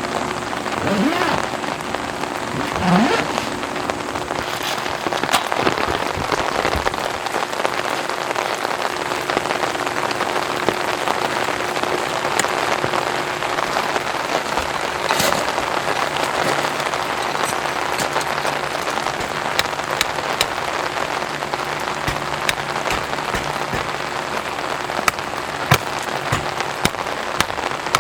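Heavy rain drumming steadily on a tent, with individual drops ticking sharply on the fabric. The drops hit harder and more often near the end.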